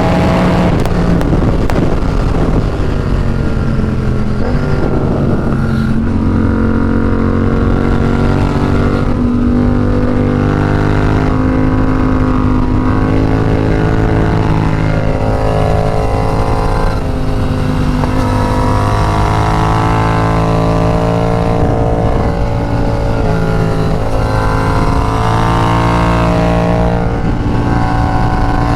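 Yamaha FZ-07 parallel-twin motorcycle engine running under way, its pitch climbing and dropping again and again as the rider accelerates, changes gear and rolls off the throttle.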